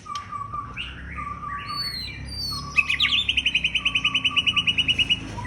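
White-rumped shama (murai batu) in full, vigorous song: a varied run of clear whistles and slurred phrases, then from about three seconds in a fast series of repeated notes, roughly ten a second, that stops just before the end.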